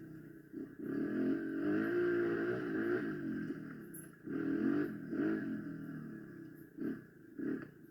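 Small motorcycle engine, likely a dirt bike, revving: the pitch rises and falls as the throttle opens and closes, with a few quick short blips of throttle near the end.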